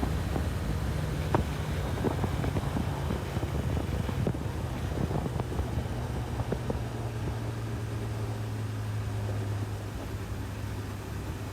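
Honda CB1000R's inline-four engine running under way, heard from on board over wind and road noise. Its pitch drops a little about halfway through and then holds steady.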